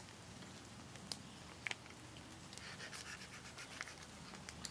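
An MRE foil pouch being cut open and handled: a few faint sharp clicks with light scratching and crinkling.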